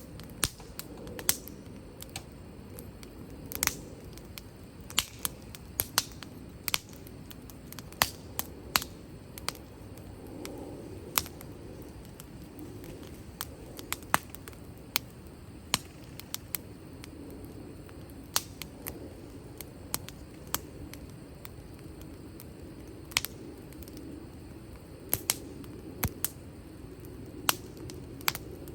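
Wood fire crackling: irregular sharp pops and snaps from the burning firewood over a low, steady sound of flame.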